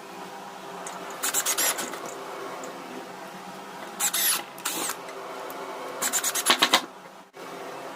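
Three short bursts of quick back-and-forth scraping strokes, like rubbing or filing by hand, over a steady low hum.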